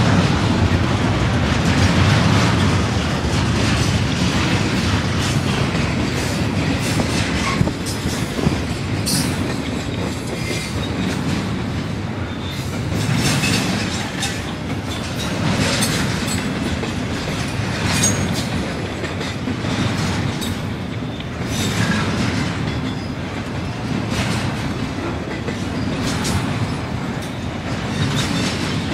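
Double-stack intermodal freight cars rolling past: a steady rumble of steel wheels on rail, with repeated clicks as the wheels cross rail joints and an occasional brief wheel squeal.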